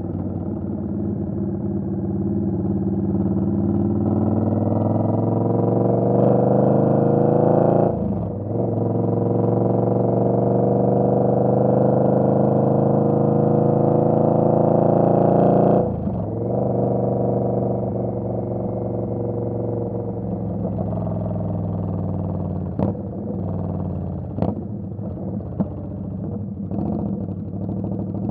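Indian Scout Bobber's V-twin engine pulling hard with rising pitch, with a brief dip for a gear change about eight seconds in. The throttle is shut about sixteen seconds in, and the engine then runs lower and steadier, with a few sharp clicks near the end.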